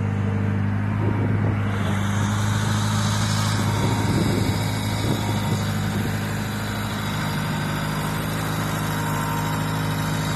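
1974 JCB 3 Mk3 backhoe's diesel engine running steadily at low revs. The throttle is held back because its linkage is sticky and has no return spring.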